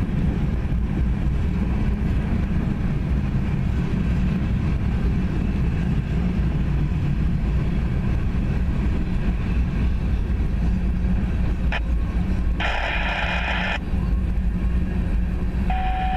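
Norfolk Southern freight train rumbling steadily past, with a diesel locomotive engine's low drone. About twelve seconds in comes a brief higher-pitched squeal-like sound lasting about a second.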